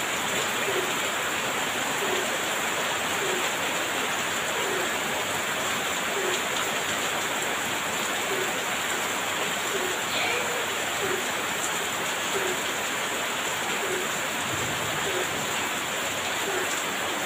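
Heavy rain pouring down, a steady dense hiss with no thunder.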